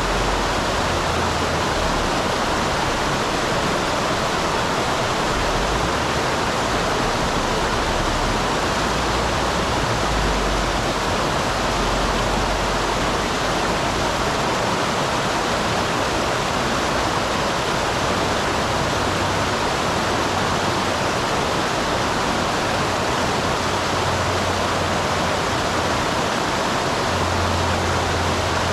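Mountain stream pouring over a small waterfall: a steady, even rush of water.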